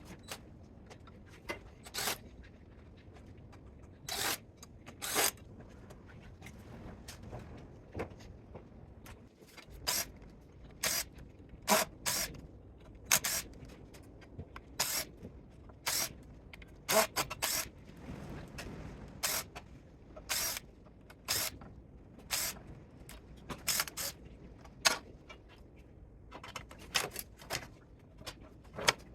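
Irregular sharp clicks and knocks from hand work on a spot welder's power supply as it is dismantled for scrap, coming roughly once or twice a second.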